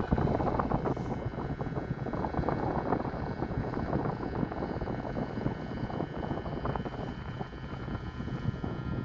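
Steady rumble of a passenger ferry under way, with a few faint steady tones above it and wind buffeting the microphone.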